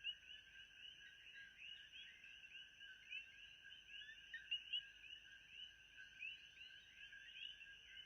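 Faint, continuous chorus of many small animal calls: overlapping short chirps with a steady high thin tone above them, a night-time nature ambience.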